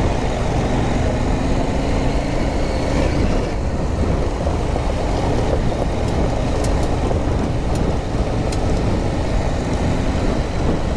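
Adventure motorcycle riding along an off-road lane: engine running under a steady, dense drone of riding noise, its pitch rising slightly in the first few seconds. A few sharp clicks come in the second half.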